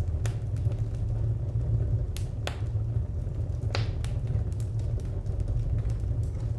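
Wood fire crackling, with scattered sharp pops and snaps over a steady low rumble of burning; a few louder pops come about two and a half and nearly four seconds in.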